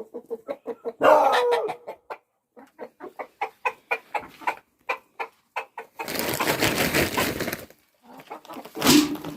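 Chickens clucking in quick runs of short, repeated calls, about five a second. A stretch of rustling noise comes about six seconds in, and a sharper, louder sound near the end.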